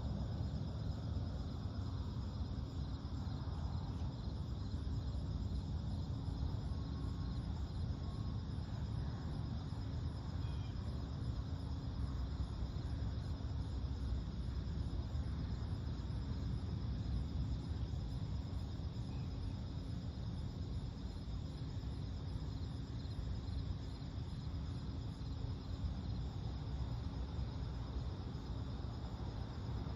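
Night insects calling steadily in even high-pitched bands, one of them a fast pulsing trill, over a steady low rumble.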